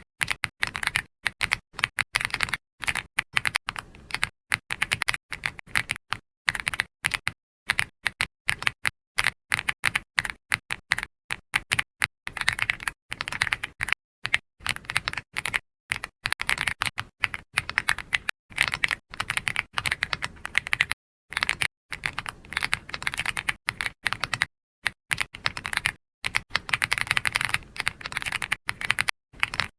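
Continuous typing on a computer keyboard: fast runs of key clicks broken by short pauses.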